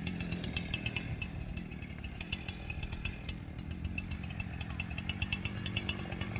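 Chainsaw engine idling steadily at low throttle, with many irregular sharp clicks over it.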